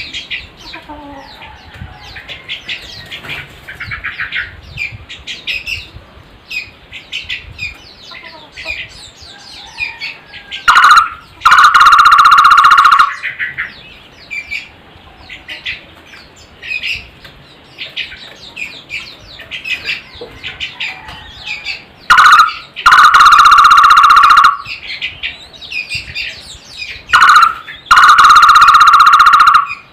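A barbet (takur) calls three times, very loudly: each call is a short note followed by a fast, even trill about two seconds long. Many small birds chirp in the background throughout.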